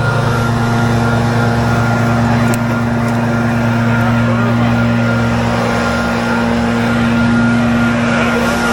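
Diesel heavy equipment engine running at a steady speed, a loud constant drone that holds the same pitch throughout.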